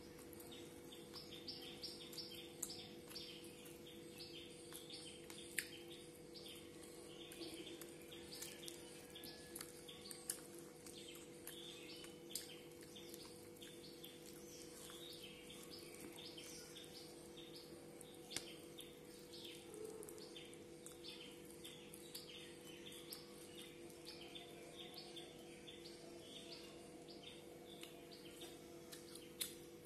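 Faint birds chirping over and over, short high cheeps, over a low steady hum, with a few sharp clicks.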